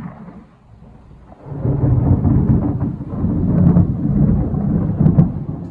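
Thunder from a nearby thunderstorm: a loud, low rolling rumble that begins about a second and a half in, goes on for about four seconds and dies away near the end.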